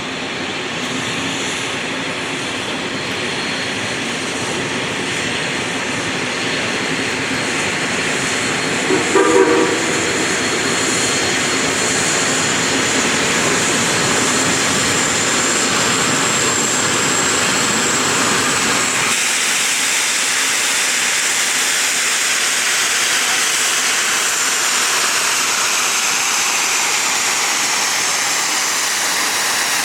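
Geared steam locomotive working past, a steady hiss of steam and exhaust that slowly grows louder, with a short whistle toot about nine seconds in. The low rumble drops away suddenly a little past halfway.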